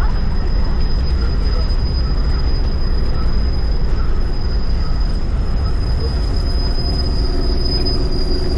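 Amtrak Empire Builder passenger train: a steady low rumble with a thin, high-pitched squeal held throughout. A couple of fainter mid tones join in over the last few seconds.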